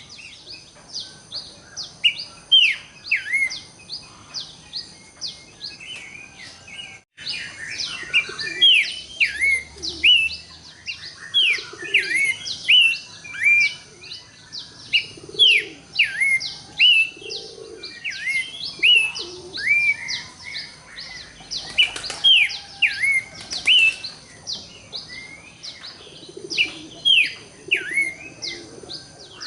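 Horsfield's babbler (pelanduk semak, cingcoho) singing: a fast run of short whistled notes, each sliding sharply downward, repeated several times a second. Softer low notes sound underneath for part of the time, and the sound cuts out briefly about a quarter of the way in.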